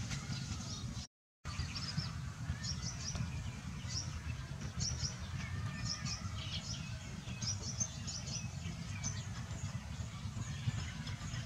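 Birds chirping repeatedly in short high notes over a steady low outdoor rumble; the sound drops out for a moment about a second in.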